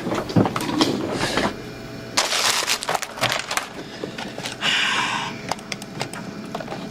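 Typing on a computer keyboard: a run of quick clicks, with two short hissy bursts of noise about two seconds in and again near five seconds.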